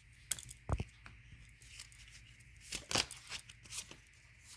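Oracle cards being handled: a few brief snaps and rustles of card stock, the sharpest about a third of a second in and another cluster around three seconds in.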